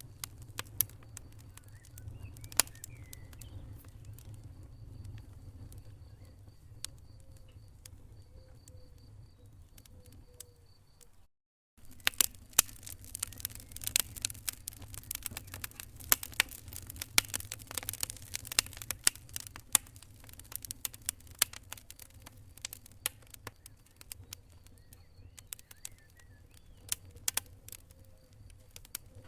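Wood fire crackling in a fireplace: irregular sharp pops and snaps over a low steady rumble. The sound cuts out completely for about half a second around eleven seconds in, and the popping is denser and louder for several seconds after it.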